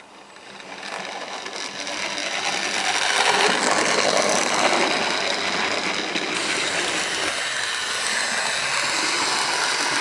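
Airfix GWR 61xx OO gauge model tank locomotive running at low speed on its track, its electric motor and gears whirring. It grows louder over the first three seconds, then runs on steadily.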